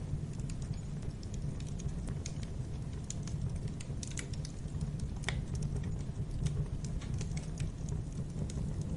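Fire burning in a fireplace: a steady low rumble of flames with frequent small, irregular crackles and one sharper pop about five seconds in.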